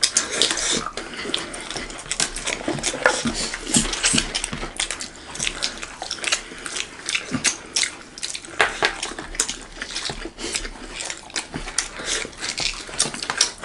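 Close-miked eating sounds: several people chewing with their mouths open and smacking their lips, with many short, irregular wet clicks.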